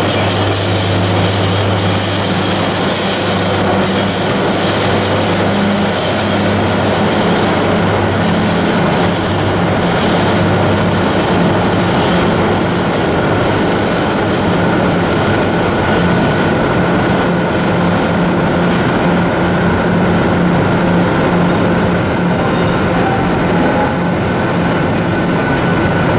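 BB 15000 electric locomotive and its Intercités coaches rolling slowly past along the platform. A low hum fades about ten seconds in, and the wheels click irregularly over rail joints throughout.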